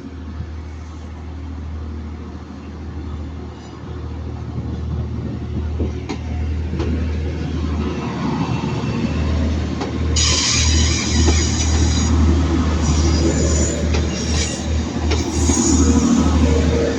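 Class 156 Super Sprinter diesel multiple unit arriving at a platform, its engines running with a low drone that grows louder as it approaches. From about ten seconds in, a high-pitched squeal comes and goes as it brakes to a stop.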